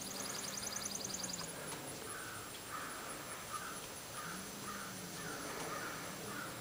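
A bird giving a string of harsh, repeated calls, about eight in four seconds, after a fast high trill in the first second or so.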